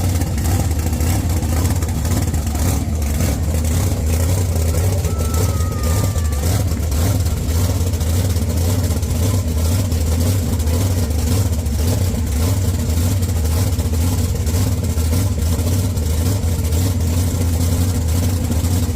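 Supercharged engine of a 1941 Willys gasser idling steadily and loudly while warming up after a cold start.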